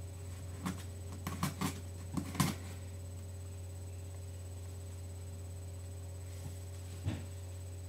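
A cardboard package being cut open with a box cutter: a few short clicks and scrapes in the first couple of seconds and one more near the end, over a steady low electrical hum.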